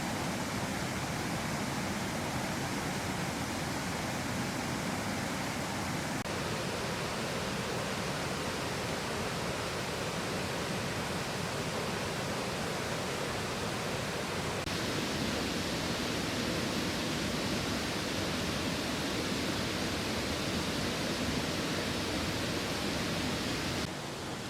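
Rushing water, a steady dense rush that changes in tone abruptly about six seconds in, again about fifteen seconds in, and just before the end.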